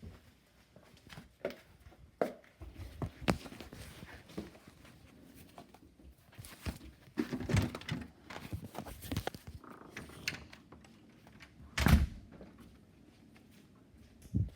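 Scattered knocks and thumps, with a cluster of rustling handling noise in the middle and the loudest thud about twelve seconds in.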